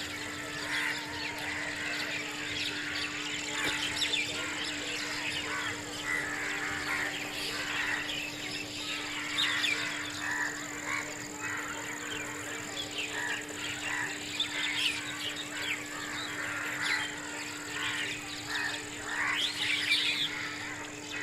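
A flock of small birds chirping constantly, many short overlapping chirps, over a steady low hum and a steady high whine.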